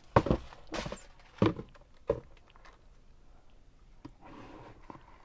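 Packaged craft supplies handled and set down: four soft thuds and knocks in the first couple of seconds, then faint rustling.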